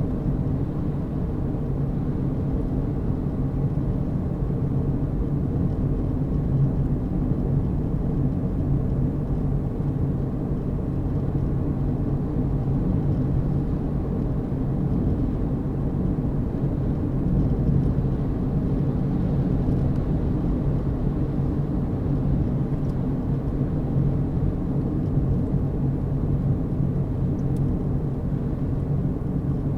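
A car driving at steady speed: a steady low rumble of road and engine noise.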